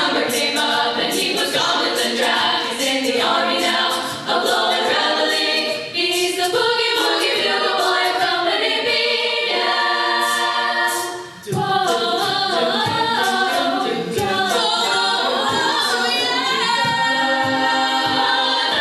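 Treble a cappella ensemble singing in close, layered harmony, with a vocal percussionist beatboxing a steady beat underneath.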